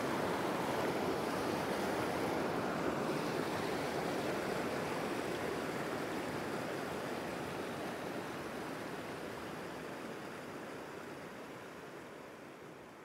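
Mountain creek water rushing in a steady wash, fading out gradually through the second half.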